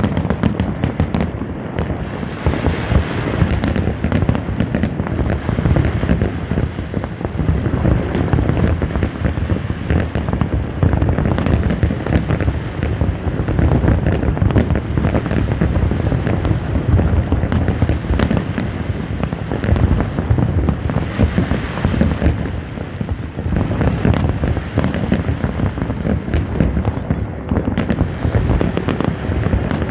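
Fireworks display: a dense, continuous barrage of booming shell bursts and sharp crackling, the cracks and booms overlapping without a break.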